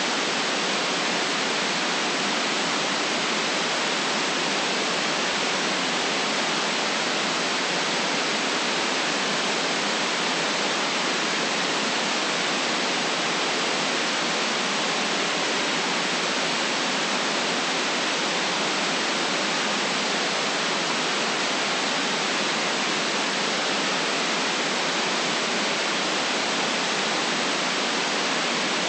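Steady electronic white noise, an even hiss with no changes or events, cut off below the deep bass and above the high treble.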